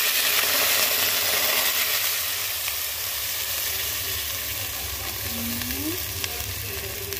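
Wet blended spice paste poured into hot oil in a pot, sizzling hard and steaming; the sizzle eases a little as the paste settles.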